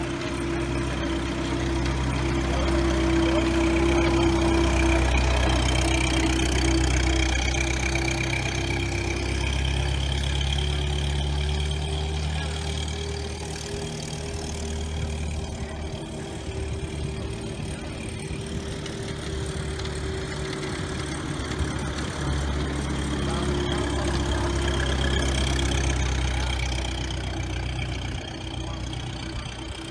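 Ford Model T's four-cylinder engine running as the car drives a loop, growing louder as it comes closer and fading as it moves away, twice over.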